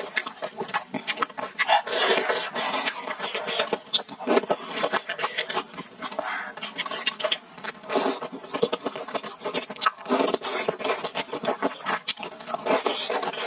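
Close-miked chewing of hot pot meat in spicy oil broth: dense wet smacking and clicking mouth sounds, with louder bursts every few seconds.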